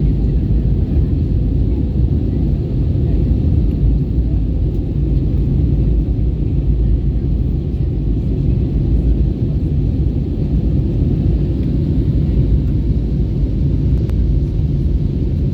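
Steady low rumble of an Airbus A321neo's engines and airflow heard from inside the passenger cabin, with a faint steady hum above it.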